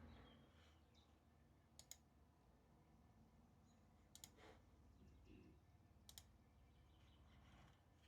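Near silence with three sharp double clicks, about two seconds apart, from something small being clicked at a study desk.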